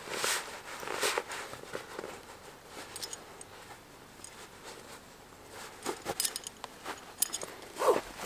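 Irregular rustling and scuffing with a few sharp clicks, the loudest just after the start, about a second in, and near the end.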